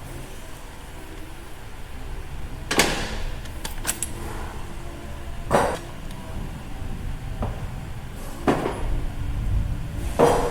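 Metal tools and engine parts clanking and knocking during an engine teardown: four louder clanks about three seconds apart, a couple of light clicks between them, over a low steady rumble.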